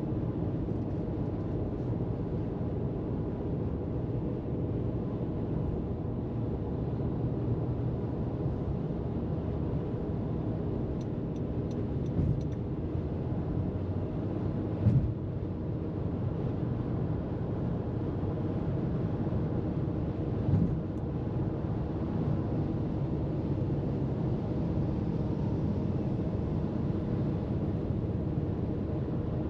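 Car driving at freeway speed: steady tyre and road rumble with a low hum, broken by three brief thumps, about 12, 15 and 21 seconds in.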